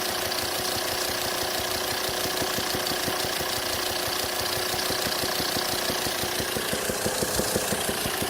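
Volvo D5 five-cylinder diesel idling steadily, with a popping noise coming back through the open air intake at the throttle body. The popping is the sign of a sheared exhaust-valve lifter socket on cylinder 5, which leaves one exhaust valve stuck closed so that pressure blows back through the intake valve.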